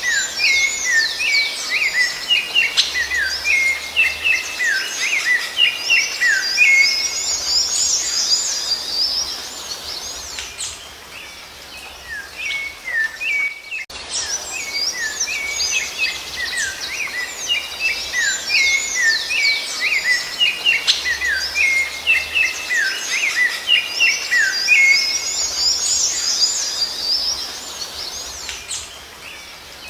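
Rufous-bellied thrush (sabiá-laranjeira) singing: a busy run of quick, high whistled notes. The same stretch of song breaks off about 14 seconds in and starts over.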